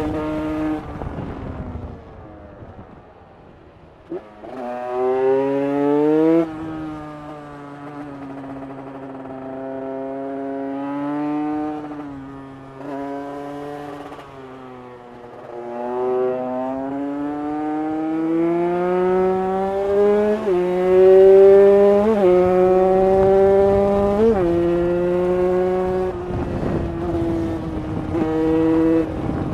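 Two-stroke single of a carbureted 2023 KTM 150 EXC supermoto, fitted with a Pro Circuit header pipe and stock end silencer, ridden hard. It backs off briefly near the start, then revs up repeatedly, its pitch climbing and falling with the throttle and dropping sharply at several gear changes.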